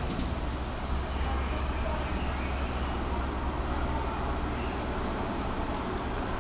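Diesel engines of a High Speed Train's Class 43 power cars running steadily, a constant low drone with a rushing noise over it.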